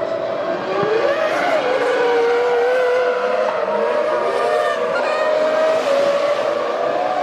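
Formula One cars' 3.0-litre V10 engines at high revs, more than one car heard at once. Their pitch rises and falls with throttle and gear changes.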